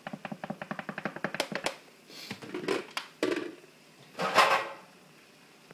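A shaker jar of chili powder rattling in quick, even shakes, about a dozen a second, as the spice is shaken out. After that come a few soft swishes and one louder scrape, the loudest sound.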